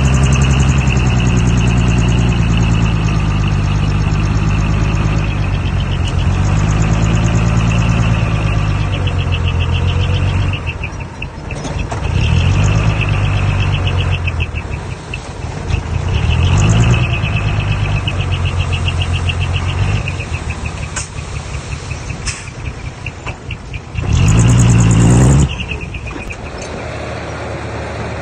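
Heavy earthmoving machine's diesel engine running, its level and pitch dipping and swelling several times as the load changes, with a short, louder surge near the end.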